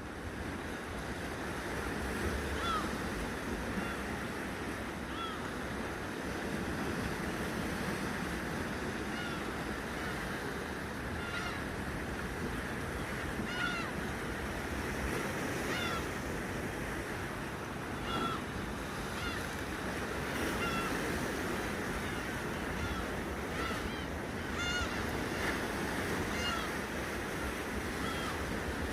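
Sea waves washing against the shore in a steady surge, with short bird calls repeating every second or two throughout.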